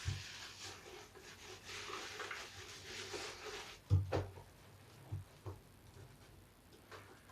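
Large soapy bath sponge being lathered and squeezed with soap scraps: crackling, hissing foam squishing for the first few seconds, then a few soft thumps about four and five seconds in, quieter toward the end.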